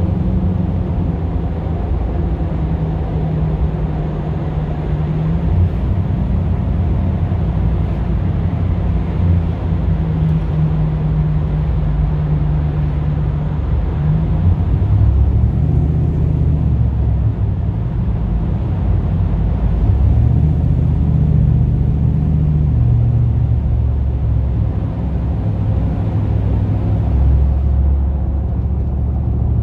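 GMC Vandura / Chevrolet G20 van's V8 engine running while driving, a steady low drone whose pitch steps up and down several times as the revs change.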